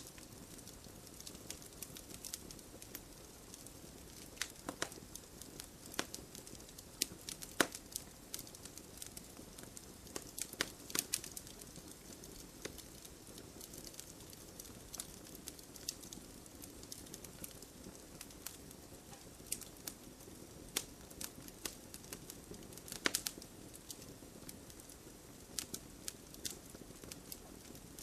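Wood fire burning with irregular sharp crackles and pops over a soft steady hiss, a few louder pops standing out.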